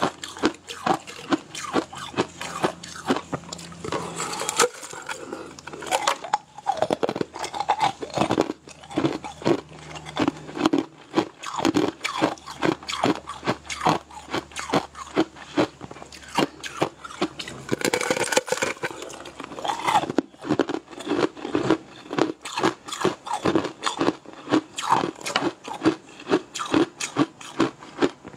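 Close-miked chewing and crunching of a translucent blue-purple candy treat, at a steady rhythm of about two chews a second. Louder crunching bites come about four seconds in and again around eighteen seconds.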